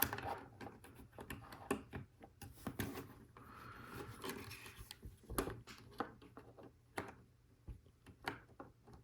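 LEGO Technic plastic parts clicking and rattling as they are handled and pins are pushed into beam holes, with a soft plastic rubbing sound about four seconds in.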